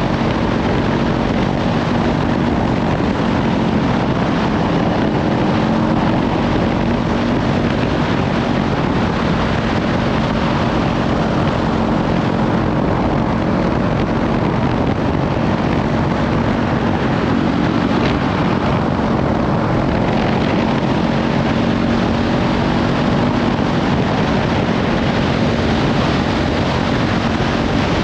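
Kawasaki Ninja 500 parallel-twin engine with a Leovince slip-on exhaust, running at a fairly steady cruise, nearly buried under heavy wind buffeting on the microphone.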